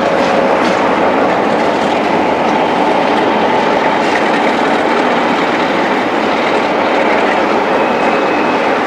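Class 47 diesel locomotive hauling passenger coaches slowly past: steady engine and wheel noise on the rails, with a steady whine held throughout and a few wheel clicks near the start.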